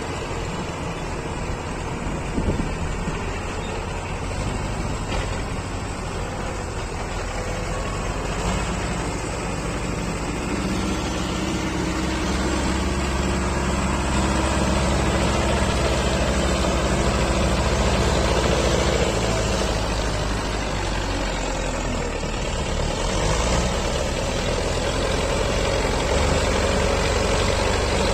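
Belarus tractor's diesel engine running steadily, getting louder about twelve seconds in and staying louder.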